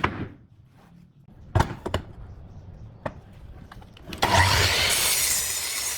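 Work on wood in a woodworking shop: a few separate knocks, then about four seconds in a loud, steady rasping noise of a tool cutting or abrading wood.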